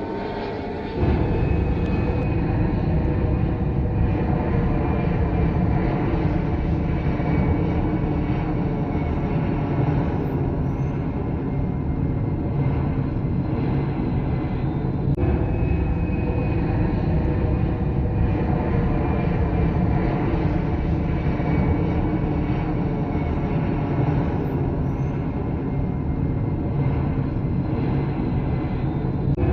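Passenger jet airliner engines running: a steady, loud noise with several steady whining tones, stepping up in loudness about a second in.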